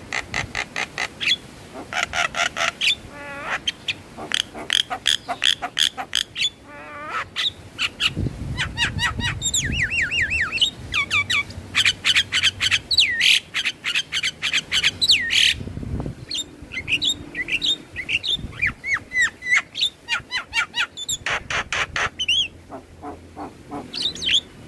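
Javan myna (jalak kebo) calling: a dense, rapid run of harsh chattering notes and clicks mixed with quick down-slurred and rising whistles.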